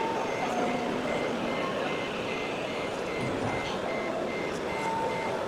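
Reversing alarm beeping steadily, about two and a half high beeps a second, over a steady background din, typical of an RC truck or construction model's sound module in reverse.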